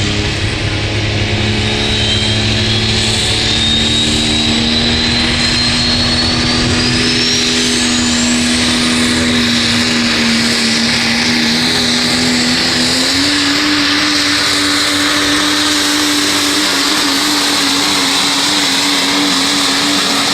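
Diesel pulling truck (a 1996 Dodge Ram) making a pass under full throttle, the engine running hard and steady with a high whistle that rises sharply in pitch over the first several seconds. The engine pitch steps up a little about two-thirds of the way through, and the sound falls away at the very end.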